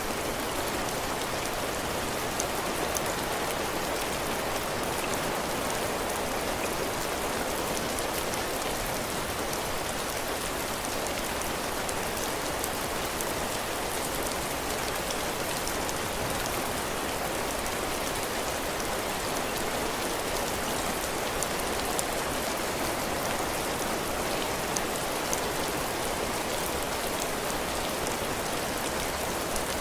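Heavy rain falling steadily on a porch roof and the ground: a dense, even hiss with scattered sharper ticks of single drops.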